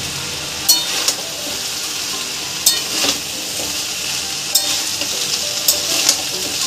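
Vegetable fried rice frying in ghee in a pan with a steady sizzle, while a metal spatula stirs and turns it, giving several sharp clinks and scrapes against the pan.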